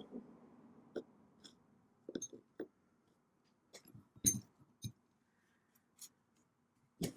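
Light clicks and taps of small parts being handled during hand work on a workbench, spaced irregularly with one sharper knock about four seconds in and a few more near the end, over a faint steady hum.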